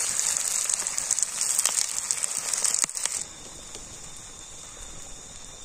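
Onions sizzling and crackling in hot oil in a kadhai. The sizzle cuts off suddenly about three seconds in, leaving crickets chirping steadily.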